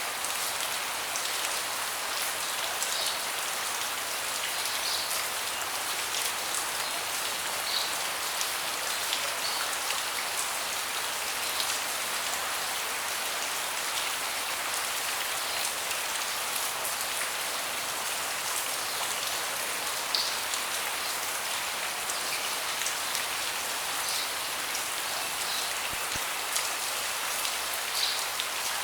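Steady rain falling on a deck, an even hiss with scattered louder individual drops landing close by.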